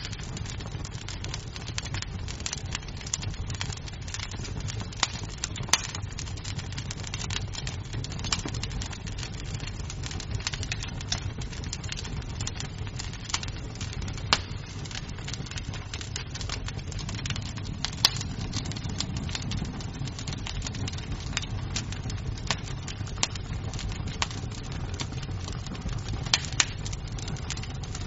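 Wood fire crackling in a fireplace: a steady low rumble of burning with irregular sharp pops and snaps of the wood, a few louder pops standing out, at about six, fourteen and eighteen seconds in.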